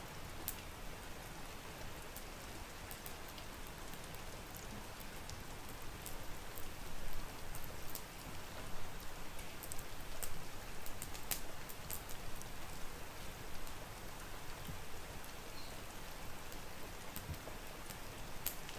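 Steady rain, with scattered sharp pops from a crackling wood fire mixed in.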